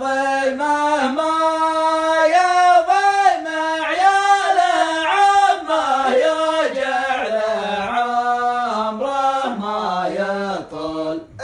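A man singing Arabic verse solo and unaccompanied, in long, ornamented phrases whose pitch slides and wavers between held notes.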